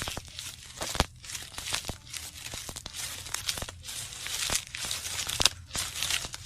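Plastic bags crinkling and crackling as they are handled, with frequent sharp clicks.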